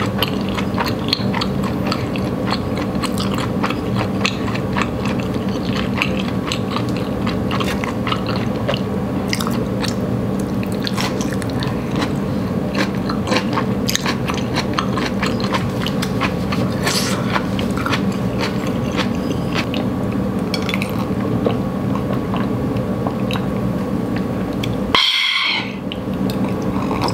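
Close-miked chewing of thick udon noodles, soy curls and broccoli: many small wet mouth clicks and smacks over a steady low hum. A sip of water near the end.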